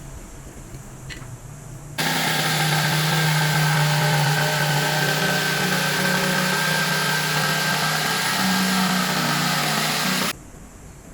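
An electric power tool's motor running at steady speed with a high whine, starting abruptly about two seconds in and stopping abruptly near the end.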